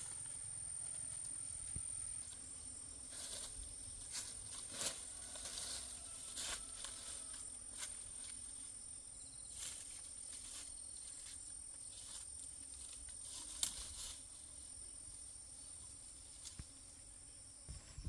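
A steady, high-pitched insect drone, with irregular rustles and crackling clicks over it, sharpest a little before 5 seconds and again around 13 seconds.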